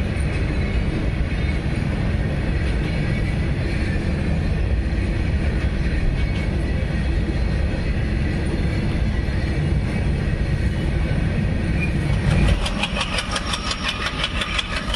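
Rumble and clatter of a loaded goods train's wagons rolling past on the rails, a steady, heavy rumble. About twelve seconds in it changes suddenly to a fast, even pulsing of about seven beats a second.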